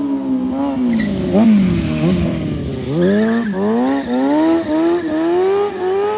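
A vehicle engine revving up and down again and again, its pitch rising and falling in quick swoops.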